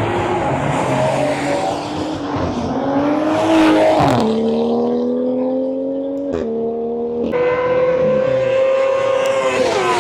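A car accelerating hard through the gears. A rough, noisy launch is followed by an engine note that climbs steadily and drops at each gear change: about four seconds in, twice between six and seven and a half seconds, and again near the end.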